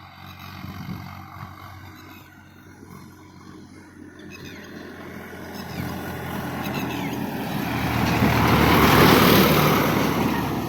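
Sonalika 45 HP tractor's diesel engine running at speed, growing steadily louder as it approaches, loudest near the end, then starting to fade as it passes by.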